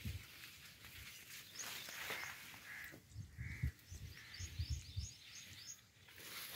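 Birds calling outdoors: a short, rounded note repeated every half second to a second, and a quick run of high chirps about halfway through. A few low thumps sound over it.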